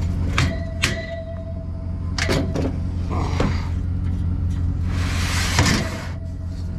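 A vehicle engine idling steadily, with several sharp knocks and clunks in the first half and a rustling, scraping sound about five seconds in, as gear is handled and packed.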